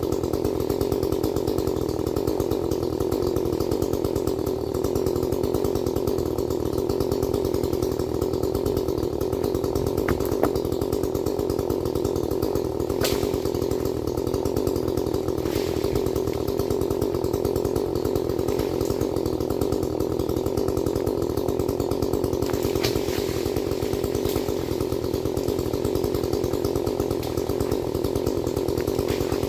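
Chainsaw running steadily at an even pitch, with no pause, and a few brief sharp cracks about halfway through and again near the end.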